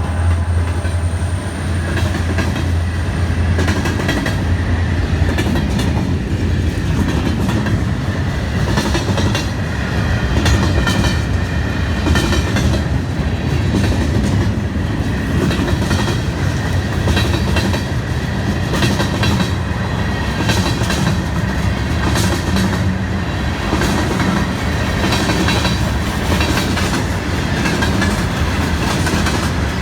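A long train's cars rolling past close by: a steady rumble with wheels clacking over the rail joints. A deep low hum fades about a second in.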